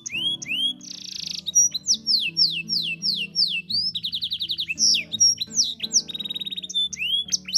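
Domestic canary singing a long, varied song: a run of quick down-slurred whistles, then fast trills and a short buzzy note, over background music.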